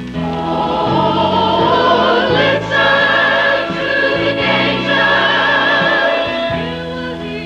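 Church chancel choir singing a Christmas cantata with accompaniment, the voices entering together at the start.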